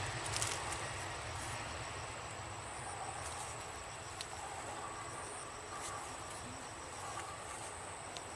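Insects trilling: a steady high-pitched tone with a faster, evenly pulsed chirping beneath it. A low rumble, likely a departing aircraft, dies away in the first couple of seconds.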